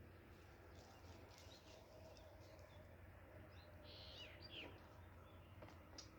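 Near silence with faint birds chirping: a few short calls about four seconds in.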